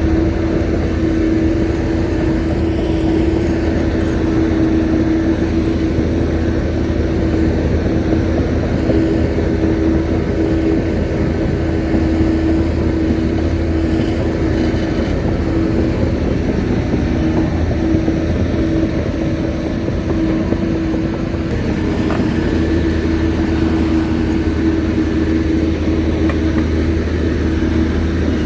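Shantui crawler bulldozer's diesel engine running steadily at working revs, a low engine note with a steady higher whine over it.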